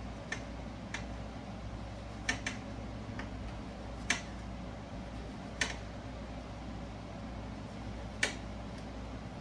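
Sharp clicks or light knocks, about eight of them spaced irregularly a second or more apart, over a steady low hum.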